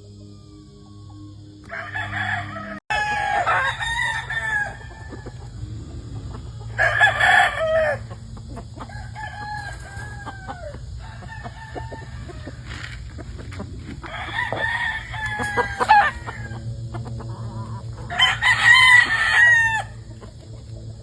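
Gamecock roosters crowing, about five loud crows a few seconds apart, with softer clucking and calls from other chickens between them.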